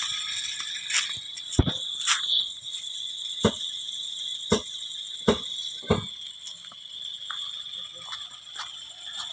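Steady high-pitched chirring of night insects, with about six sharp knocks or clicks in the first six seconds.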